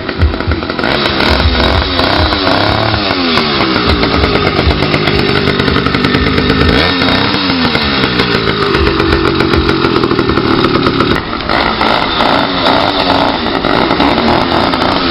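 80cc two-stroke motorized-bicycle engine running loud with no exhaust baffle, popping, its revs rising and falling several times.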